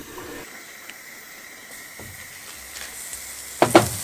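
Steady sizzling hiss of burgers starting to cook, with two sharp clicks close together near the end.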